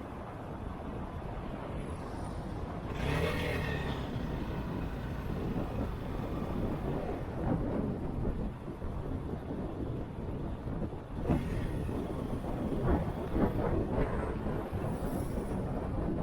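Motorcycle riding: the engine runs under a steady rumble of wind on the microphone, swelling louder about three seconds in and again in the last few seconds.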